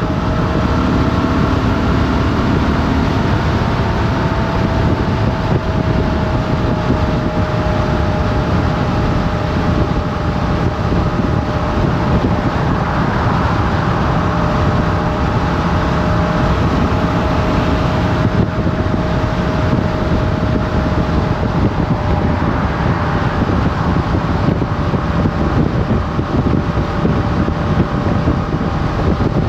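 Motorcycle engine running at a steady cruise, its pitch easing slightly in the first few seconds and then holding, over a constant rushing noise of wind on the moving bike.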